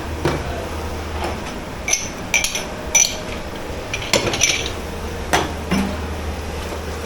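Dishes, pots and cutlery being handled in a dish pit, with a string of irregular clinks and clatters, some ringing briefly. A steady low machine hum runs underneath.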